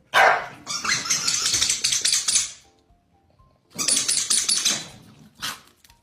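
A dog making noisy sounds in two long bursts, the first about two and a half seconds and the second just over a second, with a short third burst near the end.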